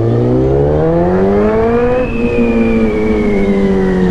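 Sportbike engine under way, revs climbing steadily for about two seconds. About halfway through the pitch dips a little, then holds and slowly eases.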